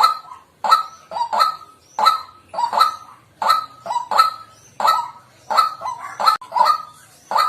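White-breasted waterhen (Amaurornis phoenicurus) calling, a loud, harsh repeated 'kwak' note, often in pairs, at about two notes a second.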